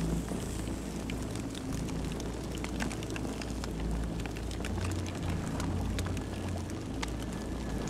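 Campfire burning: a steady low rumble of flames under many irregular sharp crackles and pops from the burning wood.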